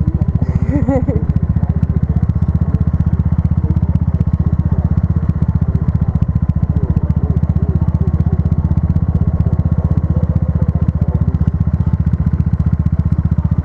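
Motorcycle engine running steadily while riding, its firing pulses loud and even, with wind noise on the camera microphone.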